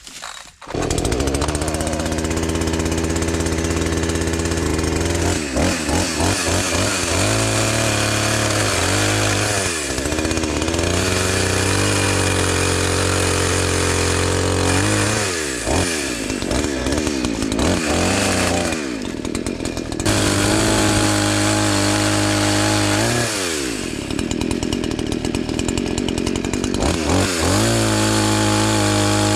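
Two-stroke chainsaw coming in about a second in and running at high revs while cutting firewood, its pitch dropping back several times between or within cuts before climbing again.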